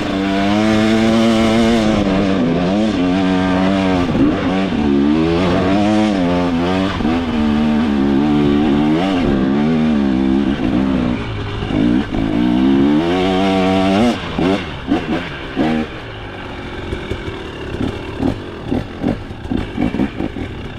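2025 KTM 300 XC's two-stroke single-cylinder engine revving hard in second gear on a steep hill climb, its pitch rising and falling again and again with the throttle. About fifteen seconds in it drops to a lower, uneven note broken by knocks and clatter.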